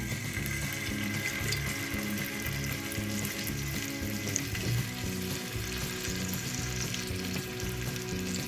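Marinated paneer pieces sizzling steadily in hot oil in a nonstick frying pan as they shallow-fry; the sizzle picks up as they are laid in. Soft background music plays underneath.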